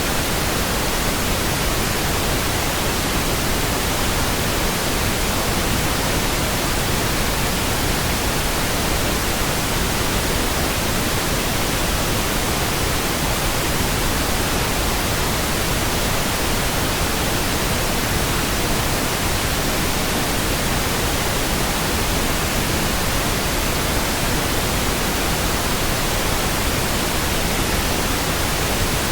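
Steady pink noise: an even, unchanging hiss spread across all pitches, with no breaks or sudden sounds.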